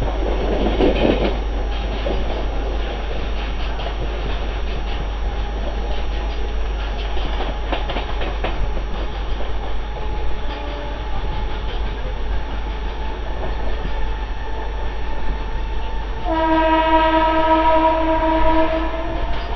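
Mumbai suburban electric local train running at speed: a steady rumble with a few quick wheel clicks about eight seconds in. Near the end a train horn sounds one steady tone for about three seconds.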